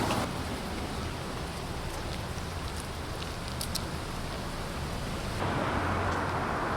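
Car traffic passing on a busy street: a steady rush of tyre and engine noise that dips just after the start and swells again for a passing car from about five and a half seconds in.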